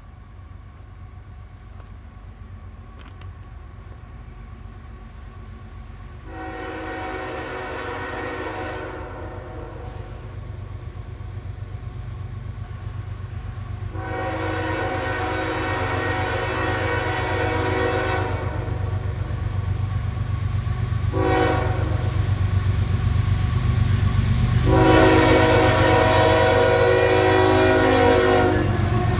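Approaching diesel freight locomotive sounding its multi-chime air horn in the grade-crossing pattern: long, long, short, long. The engine rumble underneath grows steadily louder as the train nears.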